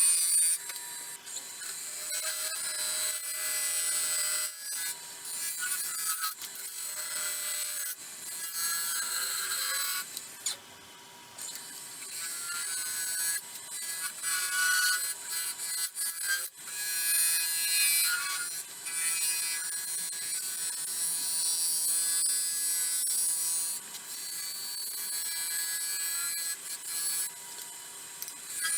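A turning tool cutting a spinning blank of resin-cast pecan shells on a wood lathe: an uneven scraping hiss that comes and goes with each pass, over the lathe's steady whine.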